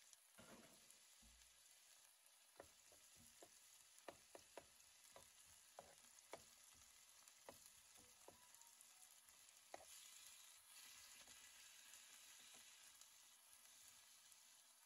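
Diced chicken, onion and garlic sizzling faintly in a non-stick frying pan, with scattered light clicks and taps of a slotted spatula against the pan as the food is stirred.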